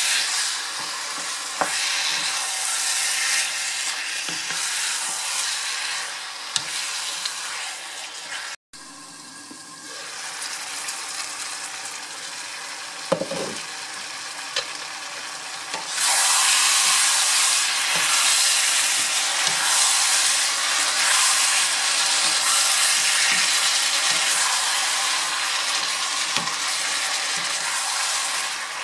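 Chicken, tomatoes and onions sizzling in a frying pan while a wooden spatula stirs them, with a few sharp knocks against the pan. The sizzle cuts out briefly about a third of the way in, stays quieter for a while, and comes back louder about halfway.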